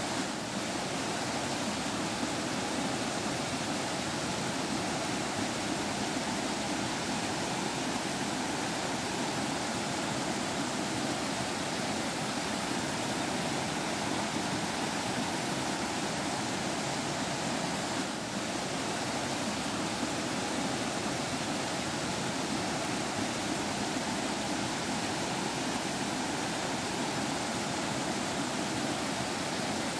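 Forest stream water flowing and babbling in a steady, continuous rush.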